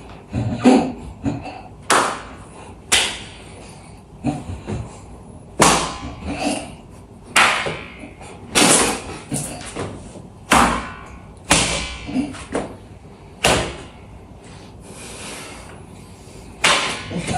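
A series of sharp knocks or thuds, about a dozen, spaced roughly a second apart with a short ring after each.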